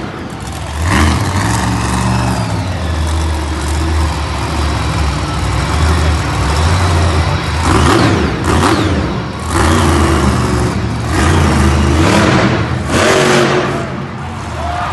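Monster truck engine revving loudly, its pitch stepping up and down, with several sharp louder surges.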